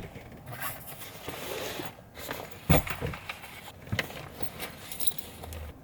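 Handling noises: rustling and light clattering, with a sharp knock a little before halfway through.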